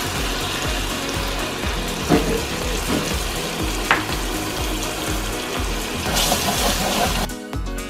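Egg frying in hot oil in a pan, a steady sizzle that cuts off shortly before the end, with a couple of sharp clicks. Background music with a steady beat plays underneath.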